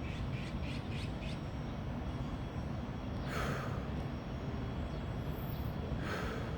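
A person breathing deeply, with two strong breaths about three seconds apart, over a steady low background rumble.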